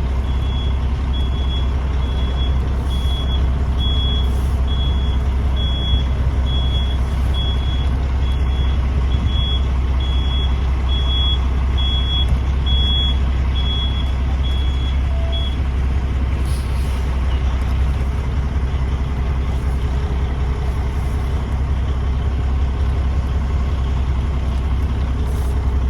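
Semi truck reversing: its backup alarm beeps about once a second over the steady low rumble of the diesel engine. The beeping stops about fifteen seconds in, and the engine keeps running.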